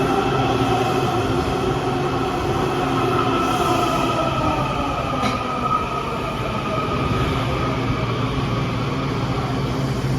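Washington Metro train's traction motors whining, several tones gliding slowly down in pitch as the train slows, over a steady rumble of wheels on rail. A single sharp click about five seconds in.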